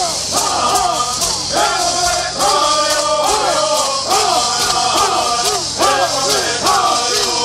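Men singing a Southern California Native American bird song, the melody rising and falling in short repeated arcs, over the steady shaking of gourd rattles.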